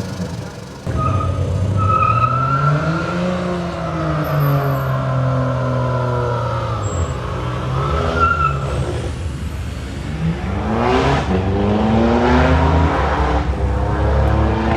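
Car engine revving at high power, its pitch climbing and falling several times.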